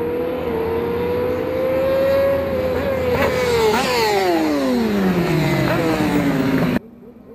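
Several 1000 cc superbike racing motorcycles at full throttle, one engine note climbing slightly before several fall steadily in pitch as the bikes go by, with short upward blips of revs. The sound cuts off abruptly near the end.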